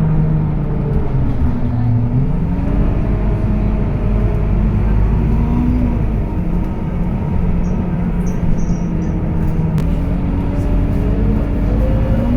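Scania K230UB bus's five-cylinder diesel engine and ZF automatic gearbox running under way. The engine note shifts about two seconds in, holds steady, then climbs near the end as the bus accelerates.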